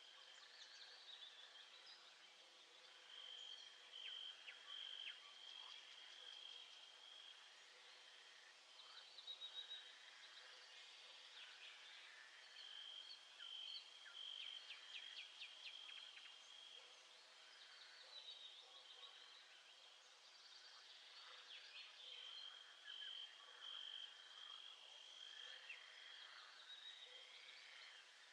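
Faint birdsong ambience: several birds chirping and calling, with a high trill that comes back three times.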